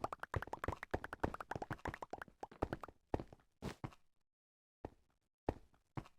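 A quick run of short sharp knocks and clicks for about three seconds, thinning to a few separate knocks with silence between them.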